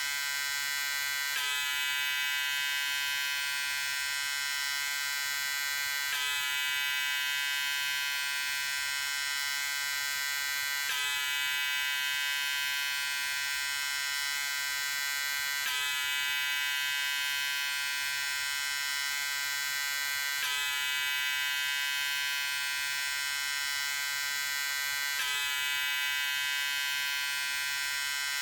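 Electric razor running with a steady, high buzz. There is a slight click and shift in the tone about every five seconds.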